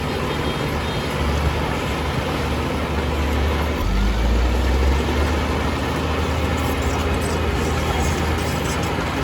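Heavy diesel earthmoving machinery running steadily. The engine note shifts lower and grows louder for about a second, about four seconds in, as if taking on load.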